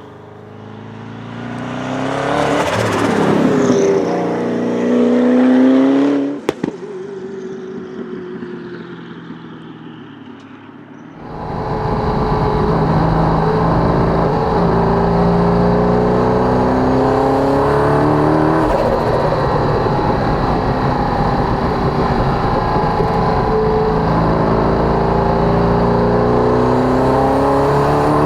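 Mazzanti Evantra Millecavalli's twin-turbo LS7 V8 accelerating hard, rising in pitch through a gear change to a loud peak. About six seconds in, the engine note cuts off abruptly with a sharp pop as the throttle closes, and the sound fades away. From about eleven seconds the same engine runs loud and close, accelerating through several gears, its pitch climbing and dropping back at each upshift.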